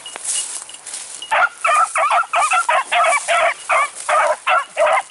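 Beagle hounds baying in a quick run of about eleven short barks, roughly three a second, starting a little over a second in. This is the cry of hounds giving tongue as they run a rabbit's scent trail.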